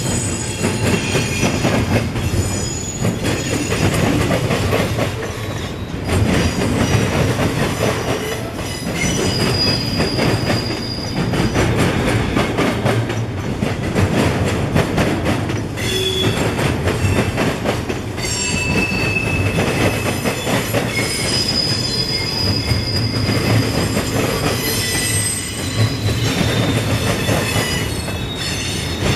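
Train rolling past with steady wheel rumble and clatter on the rails. High, thin wheel squeals come and go throughout.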